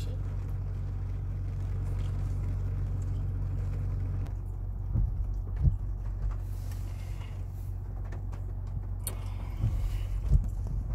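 A motor vehicle's engine running steadily with a low hum, with a few short knocks about five seconds in and again near the end.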